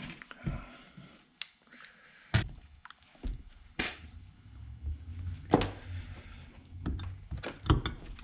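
Scattered sharp knocks and clicks, about ten in all, of hand tools and metal parts during chainsaw disassembly, with low handling rumble from about halfway through.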